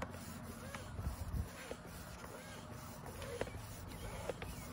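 Hand air pump being worked to inflate a car tire that has just been repaired with sticky rope plugs.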